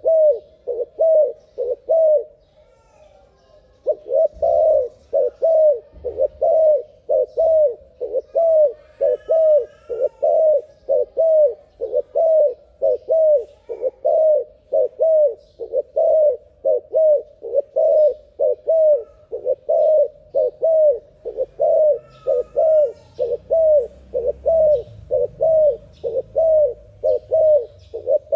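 Zebra dove cooing fast: a long run of short, repeated coo notes, about two a second, broken by one pause of a second or two shortly after the start.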